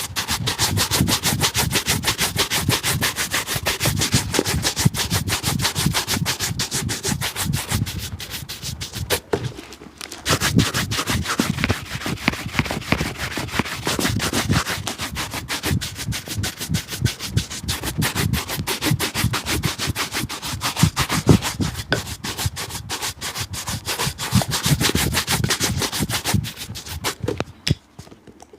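Rapid, steady rubbing strokes on a shoe during polishing, with a short break about ten seconds in and a stop near the end.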